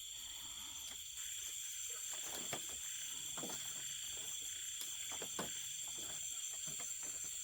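Night insects, crickets among them, chirring steadily in several continuous high tones. A few faint short knocks or rustles are heard in the middle.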